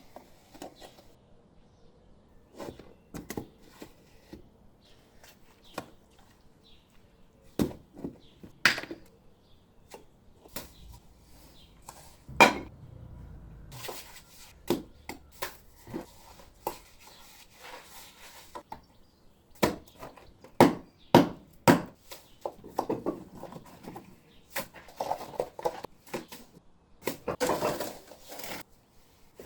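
Stone masonry work on a limestone wall: irregular sharp knocks and clinks of tools and stone, with stretches of scraping and rubbing in between. The loudest knocks come about a third of the way in and again in a quick cluster past the middle.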